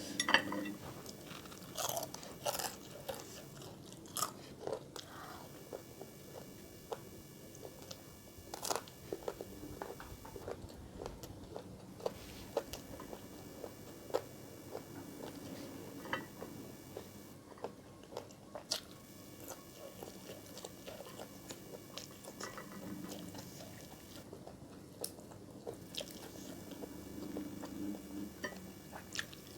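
Close-miked eating: a person biting and chewing crunchy food, with sharp crunches at irregular moments over a steady chewing murmur.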